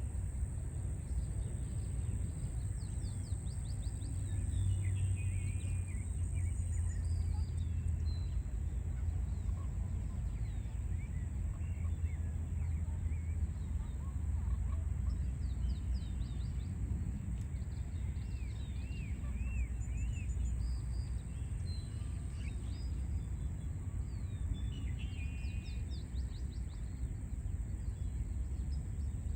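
Several small birds chirping and trilling in short scattered phrases over a steady low rumble of city traffic.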